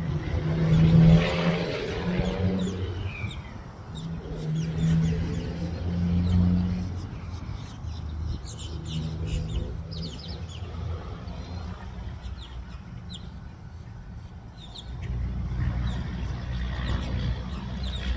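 Small birds chirping in quick, high calls, thickest in the middle stretch, over a low mechanical hum that swells and fades a few times.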